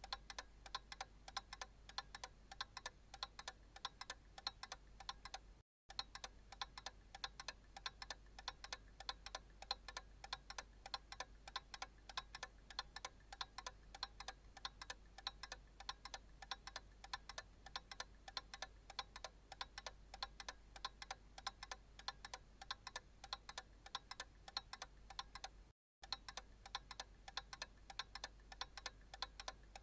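Analog clock ticking in quick, even ticks over a faint low hum. The sound cuts out completely twice for a split second, about six seconds in and again near the end.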